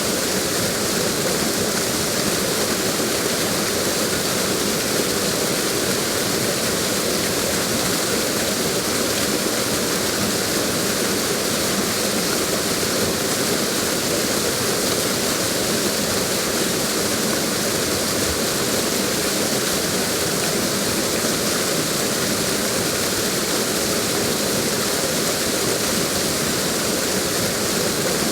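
Waterfall: water cascading over a drop, a steady, unbroken rush with no change in level.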